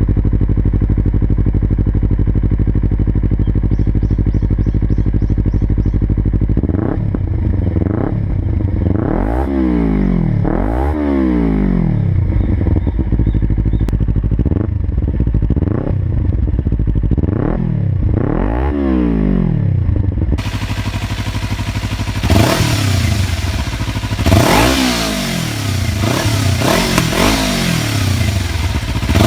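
Kawasaki Ninja 300 parallel-twin on an aftermarket exhaust idling steadily, then revved repeatedly, each blip rising and falling back to idle. About two-thirds of the way in, the sound cuts to a different recording of a Ninja 300 being revved in quick blips.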